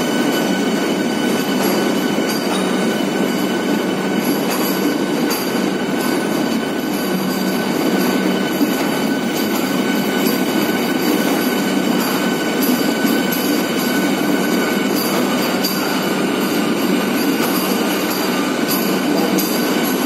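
A Vande Bharat Express (Train 18) electric multiple unit rolling past along the platform: a steady rumble of wheels on rails with a steady high-pitched whine running over it.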